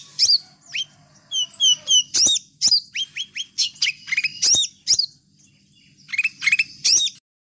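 Sunbirds chirping: quick runs of short, high, down-slurred notes, with a brief pause a little after the middle and a sudden stop just before the end.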